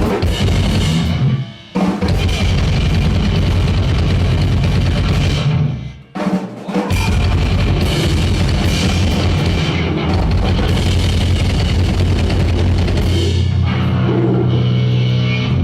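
Live noisecore playing: a dense wall of distorted noise with fast drumming, cutting out suddenly twice for a moment, then settling near the end into a steady low amplifier drone.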